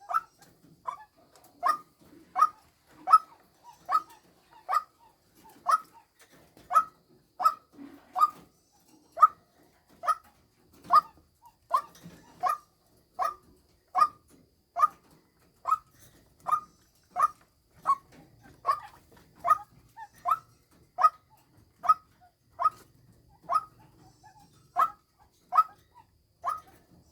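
Female white-breasted waterhen call used as a hunting lure: a short, bark-like "kuok" repeated in an even rhythm about one and a half times a second.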